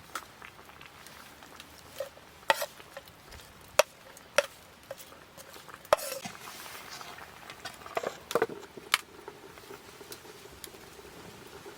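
Cooking utensils clinking and knocking against a pot or bowl while food is stirred or served: a scattered series of short, sharp clicks over a faint steady background.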